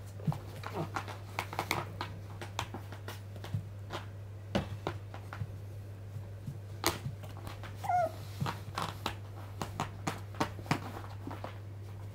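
Month-old Shiba Inu puppies at play: a string of small clicks and scuffles, with one short, wavering puppy whimper about eight seconds in. A steady low hum runs underneath.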